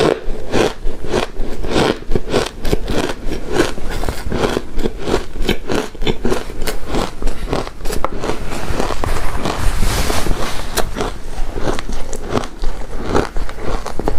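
Close-miked crunching and chewing of shaved ice: a steady run of crisp crunches, several a second.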